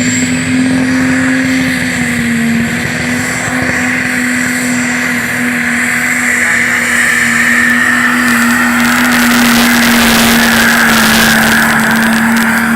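Landini pulling tractor's engine held at full throttle during a pull, a loud steady drone that sags slightly now and then. A crackling rattle joins in about nine seconds in.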